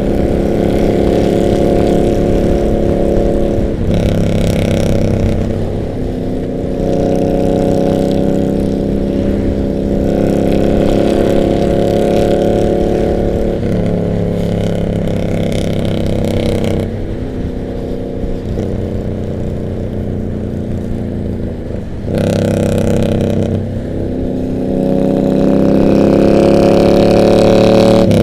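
Harley-Davidson V-twin motorcycles riding alongside. The engine pitch drops sharply at several gear changes and climbs again as they accelerate, getting louder near the end.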